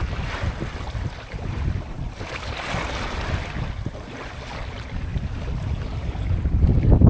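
Wind buffeting the microphone with water washing along the hull of a small sailboat under way. The low wind rumble eases in the middle and builds again near the end.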